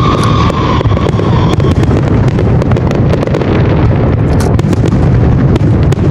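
Aerial fireworks in a dense barrage: continuous booming bursts and crackling, with a whistle that fades out about a second and a half in.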